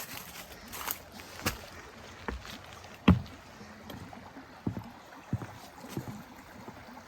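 A hiker's footsteps on a mountain trail: uneven steps and knocks about one a second, one much louder thud about three seconds in.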